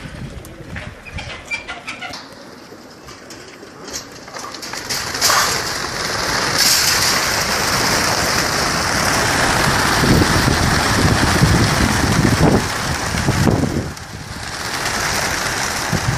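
Pigeons cooing, then a large flock of pigeons released all at once taking flight: a dense whirr of many wingbeats that swells about five seconds in, dips briefly near the end and picks up again.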